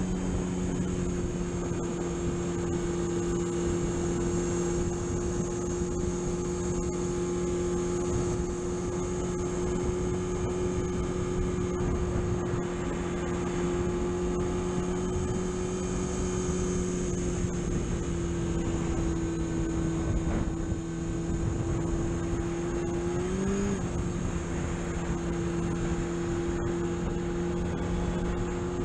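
Car engine droning at a steady speed over road and wind noise, with a brief rise in engine pitch about 23 seconds in.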